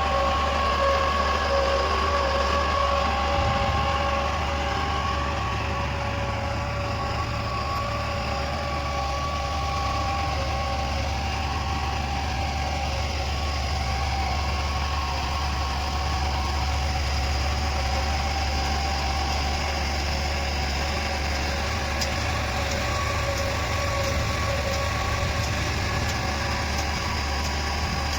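New Holland 45 HP tractor's diesel engine running steadily, with a steady whine over the low hum.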